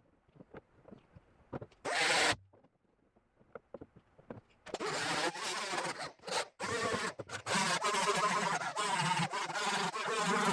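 A handheld power tool working sheet metal during patch fitting. It gives one short burst about two seconds in, then runs steadily from about halfway, with a few brief stops.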